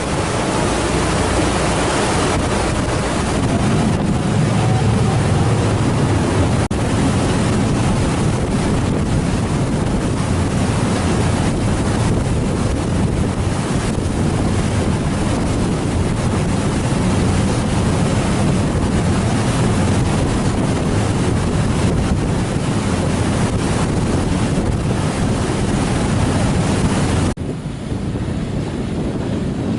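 Strong wind buffeting the microphone over a steady rush of harbour water. Near the end it drops suddenly and turns duller.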